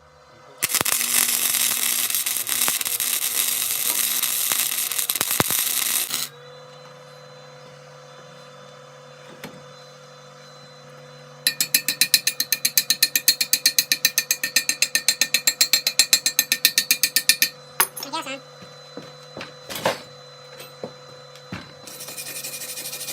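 Electric welding arc laying test beads while the welder is being set up: a steady crackling hiss for about five seconds, then a pulsing run of about seven pops a second for about six seconds, and a short burst of crackle near the end. A steady hum from the welder fills the gaps between beads.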